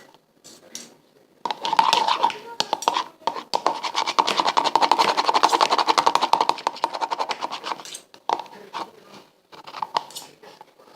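Fast, scratchy scraping of a utensil stirring slime mixture in a bowl. It starts about a second and a half in, runs loud and rapid for several seconds, and eases off near the end.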